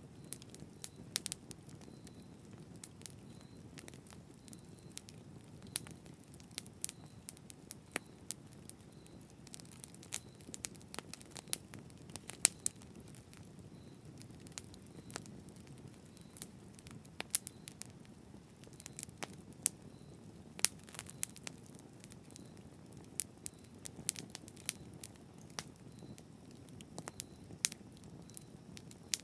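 Wood fire burning steadily, with irregular sharp pops and crackles over a soft low rumble of flames.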